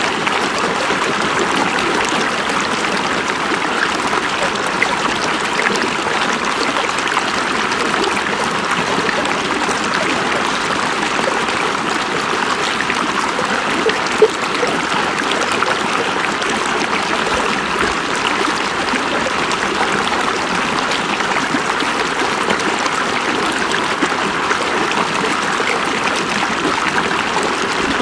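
River water flowing over rocks: a steady rushing and splashing that doesn't let up.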